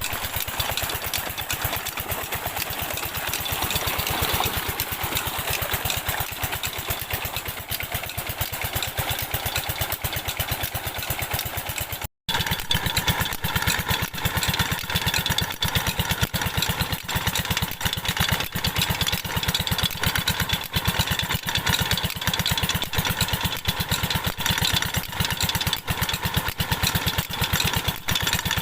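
Diesel engine of a tube-well pump running steadily, with a fast, even beat of exhaust pulses. The sound breaks off for a moment about twelve seconds in and comes back a little louder.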